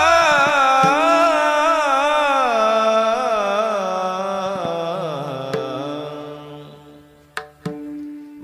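A male devotional singer holding a long, wordless melismatic vocal line in an Indian bhajan style, wavering and sliding slowly down in pitch as it fades over about seven seconds. Two sharp clicks sound near the end.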